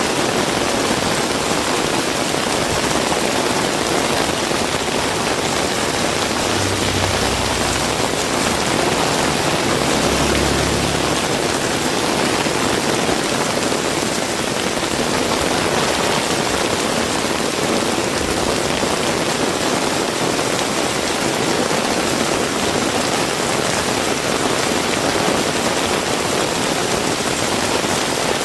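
Heavy rain falling steadily, a dense, even hiss of rain on the surfaces all around, with a brief low rumble twice in the first half.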